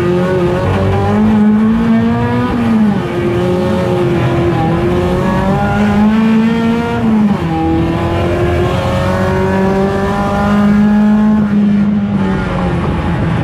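A 1.6-litre touring race car engine at full throttle, its pitch climbing steadily and then dropping sharply at each gear change, three times.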